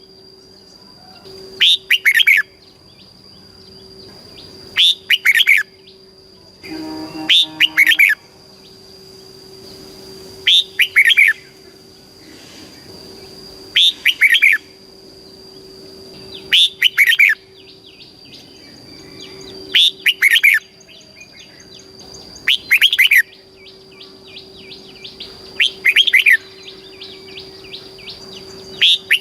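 Red-whiskered bulbul singing short, loud whistled phrases, about one every three seconds, over a faint steady background tone.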